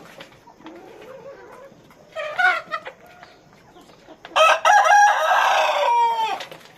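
Chickens on a poultry farm: a short call about two seconds in, then a rooster crowing once, a loud call of about two seconds that drops away at the end, over faint clucking of the flock.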